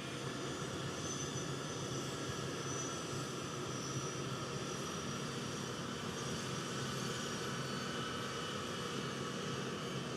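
C-17 Globemaster III's Pratt & Whitney F117-PW-100 turbofan engines running steadily after start, a constant roar with a faint high turbine whine.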